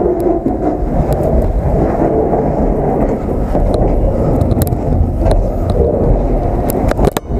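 Freight train rolling, heard up close from a gondola car's side ladder: a steady low rumble with scattered metallic clicks and knocks from the wheels and car body. The sound drops out briefly just before the end.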